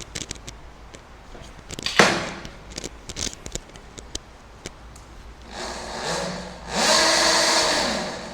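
Work on a chain with chain lube: scattered clicks and knocks, one sharp knock about two seconds in, then from about five and a half seconds a louder rushing whir with a wavering pitch.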